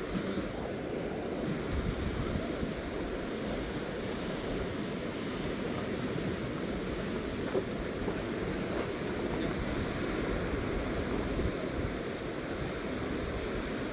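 Sea surf washing onto a rocky shore, with wind buffeting the microphone: a steady rushing noise with no distinct events.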